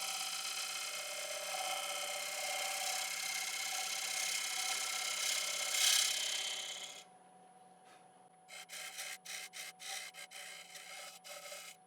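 Bowl gouge cutting the rim of a cypress bowl spinning on a wood lathe: a steady shaving cut for about seven seconds that then stops. It is followed by several short light cuts, with the lathe motor humming steadily throughout.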